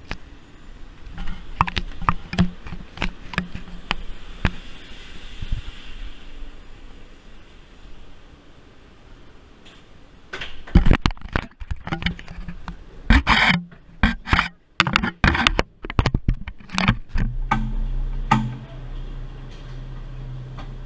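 Irregular clanks, knocks and scrapes, a few spread through the first seconds and then a dense run of loud ones about halfway through. Near the end a steady low hum sets in.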